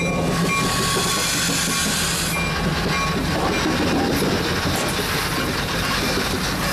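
Train rolling past, a steady loud rumble and clatter of wheels on the rails. Faint intermittent squealing tones fade out in the first few seconds.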